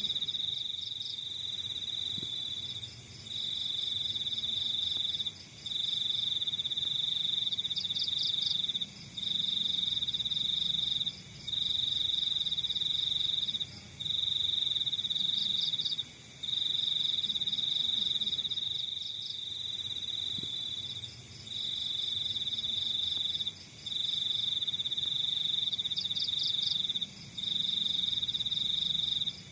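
Crickets trilling: a steady, high-pitched trill in runs of two to three seconds, broken by brief pauses, with a second, faster pulsing chirp just above it.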